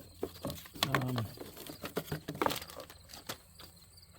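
Scattered sharp metal clicks and knocks of hand tools at work on a truck's front brake. About a second in comes a short, low, falling vocal sound like a grunt.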